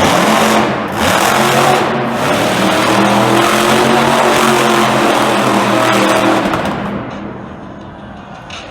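Monster truck engine running loud at fairly steady revs, then dying away about seven seconds in.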